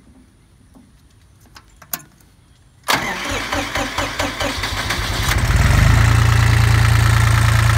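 A couple of faint clicks, then about three seconds in the starter cranks the 1983 International 274's Nissan three-cylinder diesel engine. The engine catches after about two and a half seconds of cranking and settles into a steady run.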